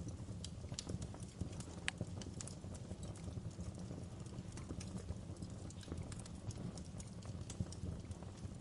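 Wood fire in a fireplace crackling and popping: irregular sharp snaps of burning logs over a steady low rumble, with the loudest pop about two seconds in.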